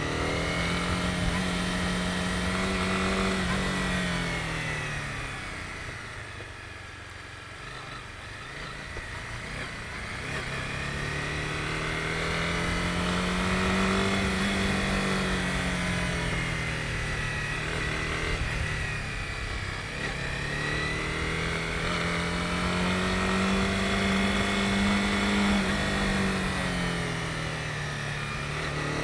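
Honda CB250R's single-cylinder engine under way, its revs rising and falling in slow waves as the throttle is opened and closed. It eases off to a low about six seconds in, then climbs and falls back twice more.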